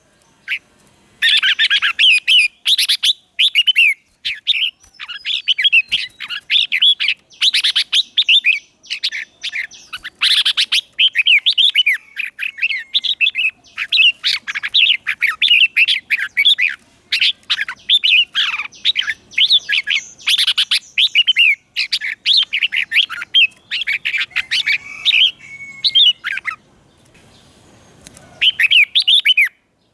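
Red-whiskered bulbul singing: rapid runs of short, bright whistled phrases, one after another, breaking off shortly before the end for a brief pause and then one more burst. This is the song of a decoy bulbul used to call in and provoke wild birds.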